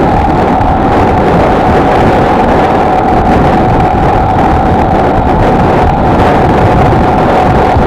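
Honda XLR125R's single-cylinder four-stroke engine running at a steady cruising speed, mixed with wind rushing over the microphone. The engine note holds steady throughout.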